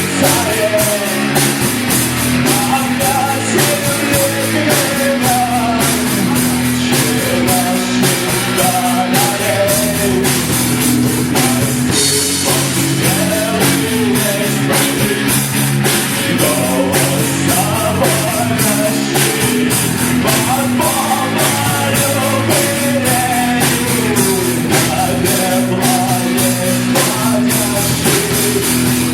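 Live rock band playing loudly: a driving drum-kit beat, bass and guitars, with a melody line that may be sung or played.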